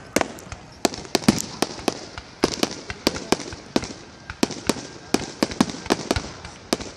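Aerial fireworks display: a rapid, uneven string of sharp bangs from bursting shells, about three to four a second.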